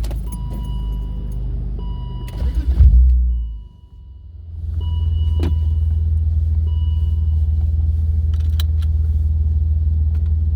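BMW E36 328's straight-six running through a MagnaFlow muffler, heard from inside the cabin: a low rumble that swells briefly near three seconds, dips, then settles into a steady deep drone from about four and a half seconds. A thin beeping tone comes and goes over the first seven seconds.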